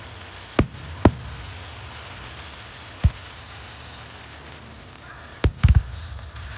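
Aerial fireworks going off in sharp bangs: single bangs about half a second, one second and three seconds in, then a quick cluster of three near the end, over steady background noise.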